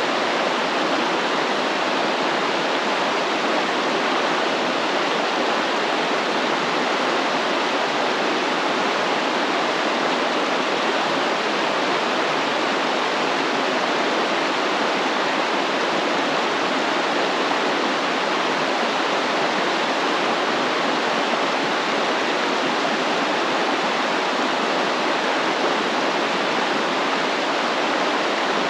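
Stream water flowing and rushing in a steady, even wash, with no pauses or changes.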